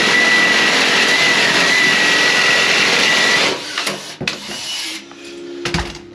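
Handheld power cutting tool running at high speed on sheet metal, a steady high whine over a loud hiss, stopping about three and a half seconds in; a fainter steady hum follows.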